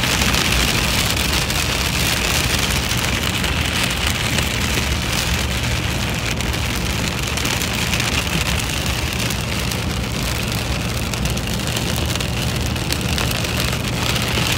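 Steady rain falling on a moving car, heard from inside the car, over the low steady drone of the engine and tyres on the wet road.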